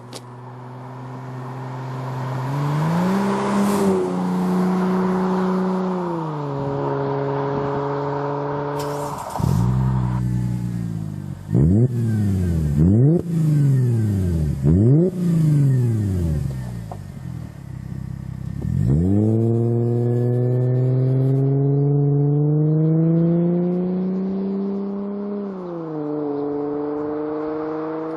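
Mercedes W211 E350 4matic's V6 engine through a sport rear exhaust silencer. It rises slowly in pitch and holds, then is revved in four or so quick sharp blips in the middle, then climbs and holds again before easing off near the end.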